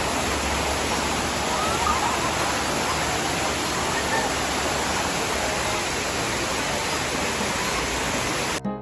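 Waterfall rushing, a steady even roar of falling water. It cuts off abruptly near the end as jingly music starts.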